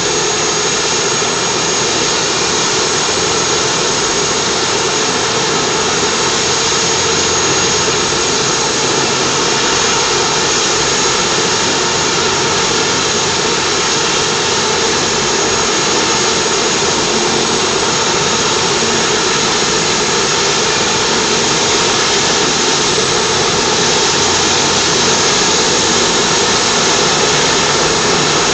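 Medevac helicopter's turbine engine and rotor running steadily, a high whine held over a loud, even rush.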